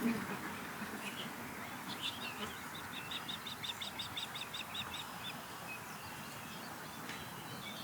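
Osprey calling: a rapid series of short, high chirps, about six a second, lasting a few seconds, over steady outdoor background noise.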